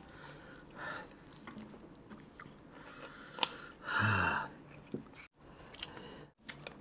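Close-up eating sounds of people chewing sauce-covered fried chicken by hand: wet chewing, lip smacks and sharp mouth clicks. About four seconds in there is a short, louder voiced exhale.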